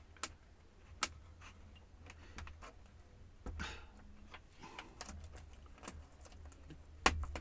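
Scattered small plastic clicks and taps from a laptop case being handled while its top bezel is prised off, with a sharper click near the end. A short rustle comes about halfway through, over a faint steady low hum.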